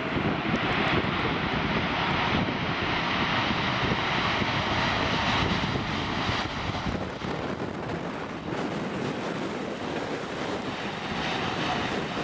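Jet airliner engines running, a steady loud rush with a faint whine on top.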